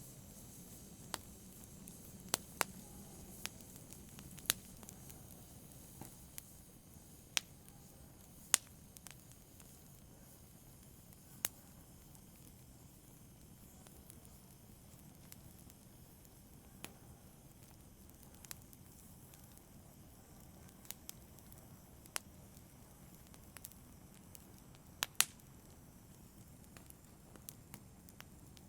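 Wood fire crackling: sparse, irregular sharp pops every second or two over a soft low hiss, with a louder double pop near the end.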